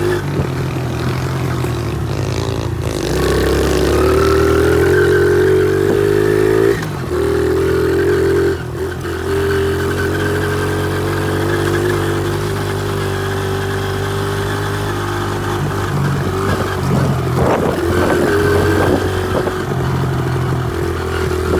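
Honda XR70 pit bike's small single-cylinder four-stroke engine running under way, the revs climbing about three seconds in and dipping briefly twice as the throttle is eased, with some rattling later on.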